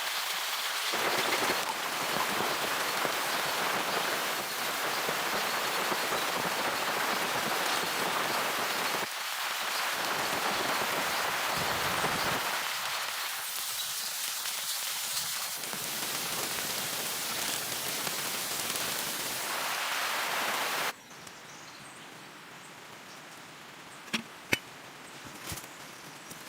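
Steady heavy rain hissing. About 21 seconds in it cuts off abruptly to a much quieter background, broken by a few sharp clicks.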